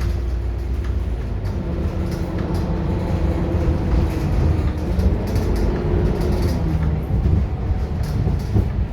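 The diesel engine and drivetrain of a Scania K230UB city bus running under way: a steady low rumble with a faint whine whose pitch shifts now and then.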